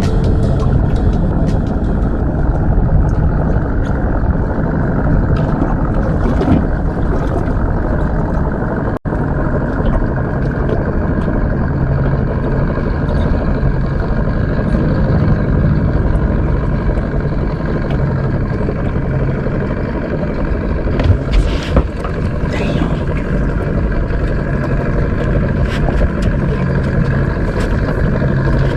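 A vehicle engine running steadily under way, a dense low rumble. There is a brief dropout about a third of the way in, and a few sharp knocks a little past two-thirds through.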